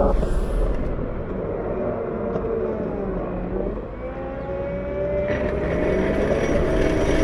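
Cat 908 compact wheel loader's diesel engine working, its revs dropping over the first few seconds and then climbing back up. A hiss joins about five seconds in.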